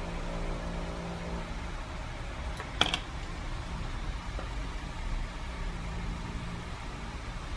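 Steady machine hum, like a small fan or motor, with one sharp click about three seconds in.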